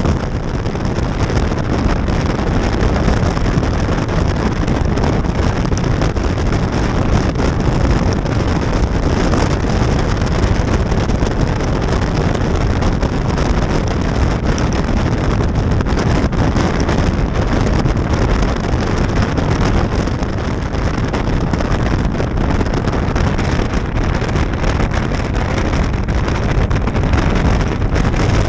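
Steady wind rushing over the microphone of a moving motorcycle, a loud even noise heaviest in the low end, with the bike's running and road noise blended in.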